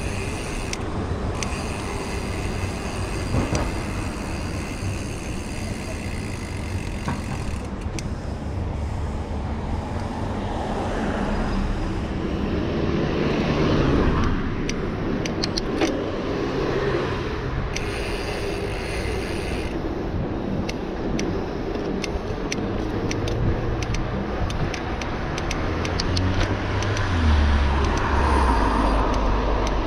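Ride noise on a handlebar-mounted camera while cycling a mountain bike along a city street: a steady rush of wind and tyre and road noise with traffic going by, dotted with small clicks and rattles from the bike. The rush swells louder twice, about halfway through and near the end.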